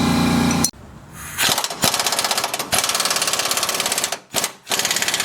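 Pneumatic impact wrench hammering in three long bursts on the Jeep's suspension bolts. Before them, a steady machine hum cuts off suddenly less than a second in.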